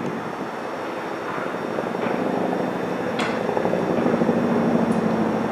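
Electric commuter train approaching across the station pointwork: a steady rumble that grows slowly louder, with a brief high-pitched squeal about three seconds in.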